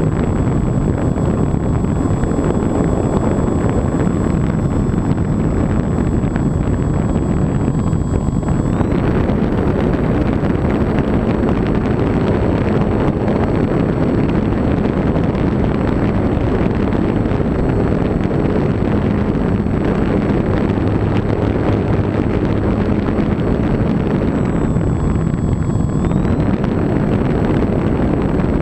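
Techone SU31 RC plane's electric motor and propeller whining in flight, buried in heavy wind rush on the onboard camera's microphone. The whine steps up in pitch about nine seconds in, dips briefly near the end, then rises again.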